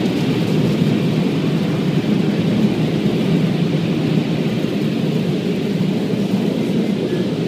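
Car wash air-dryer blowers blasting over the car, heard from inside the cabin as a loud, steady rumbling.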